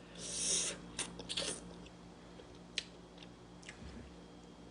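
A person eating stewed fish head close to the microphone: a brief hissy sucking noise near the start, then a few scattered wet clicks of chewing.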